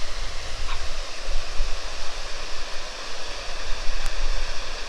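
Steady rushing of falling water, an even hiss with no breaks, over a low rumble that rises and falls.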